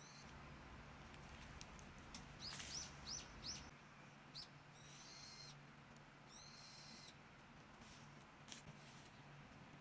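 Faint, high chirps of a small bird: a quick run of short chirps about two and a half seconds in, and longer chirping around five and seven seconds, over a low steady hum.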